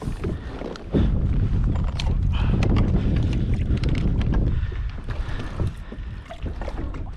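Wind buffeting the action camera's microphone: a loud rumbling gust that starts suddenly about a second in and dies down after about three and a half seconds, with scattered clicks and knocks.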